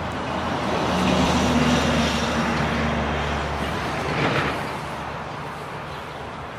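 A motor vehicle passing by: a low engine hum and the noise of its passing swell over the first couple of seconds, then fade away.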